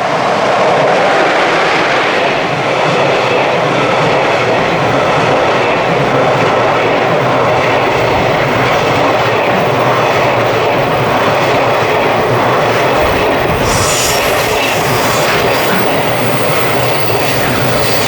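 A container freight train hauled by an EF66 electric locomotive, made up of Koki 100-series wagons, running past at speed: steady, loud wheel-and-rail rumble with clickety-clack over the rail joints. It grows louder in the first second, and a sharper, hissier edge joins about two-thirds of the way in.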